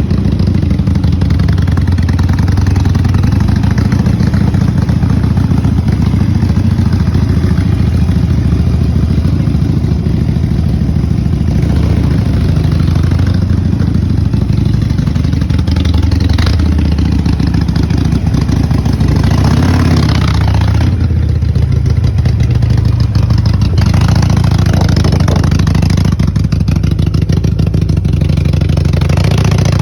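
Custom Harley-Davidson Sportster's air-cooled V-twin running through an aftermarket DC&CS exhaust, a steady deep exhaust note with a few brief swells of throttle.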